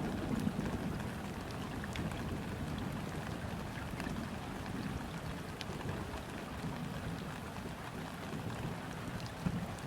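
Gentle rain falling steadily onto a river's surface, with many small drop ticks, over a low rumble of distant thunder.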